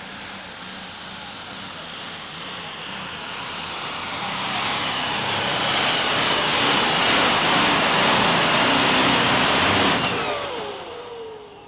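Super stock pulling tractor's turbocharged engine under full load on a pull, with a steady high turbo whistle over the engine noise, growing louder for several seconds. About ten seconds in it is throttled back and winds down, the pitch falling as it fades.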